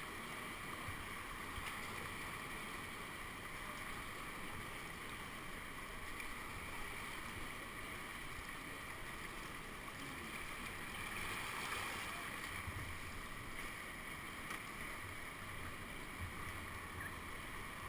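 Steady rush of whitewater running down a man-made whitewater channel, heard from a kayak on the run.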